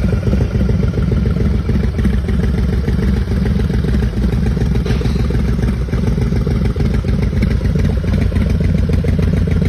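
A 2001 Big Dog Pro Sport's 129 cubic inch V-twin motorcycle engine running steadily at a fairly even speed, loud and close.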